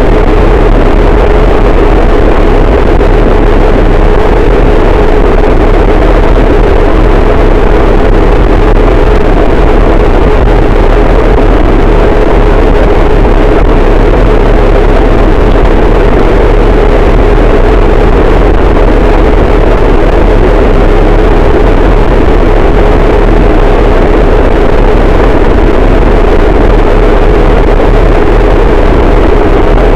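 Harsh noise wall: a dense, distorted static noise at full volume that does not change, heavy in the deep bass with a strong band in the low mids.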